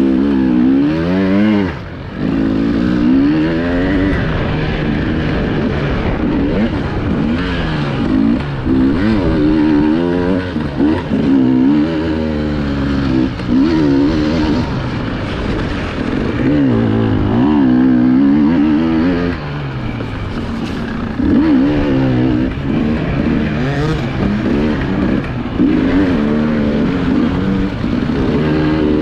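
Enduro motorcycle engine revving up and down again and again as it is ridden hard, heard from on the bike, with constant throttle changes.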